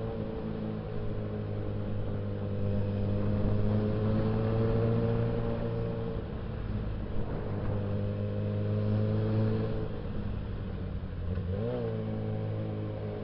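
Suzuki Bandit 650S inline-four motorcycle engine running steadily under light throttle while riding, its pitch drifting gently up and down, with a quick rev blip near the end.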